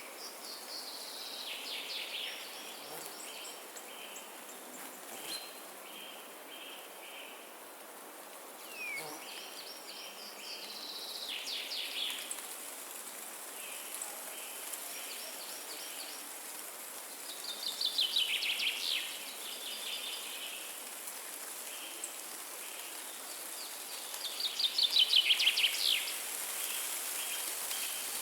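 Songbirds singing in a forest: four bursts of quick, falling chirps, the loudest near the end, with a steadier run of evenly spaced chirps early on, over a constant hiss of wind in the trees.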